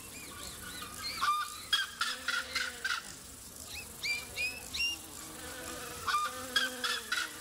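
Birds calling, a string of short rising calls repeated throughout as freshly released birds take flight.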